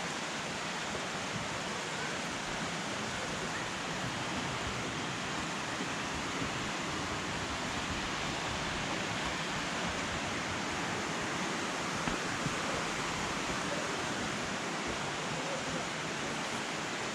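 Steady rush of flowing water from a creek and its falls.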